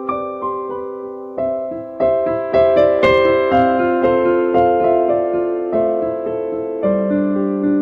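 Slow, soft solo piano or electric piano music: sustained chords and single notes struck about once a second, each ringing and fading.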